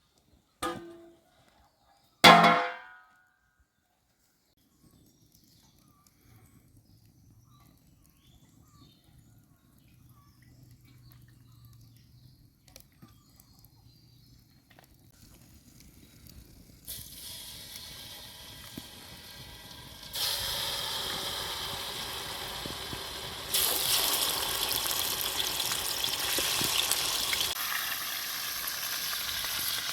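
Food sizzling in a hot pan, a hiss that comes in after a quiet stretch and grows louder in steps. Near the start there is a single short, loud animal call.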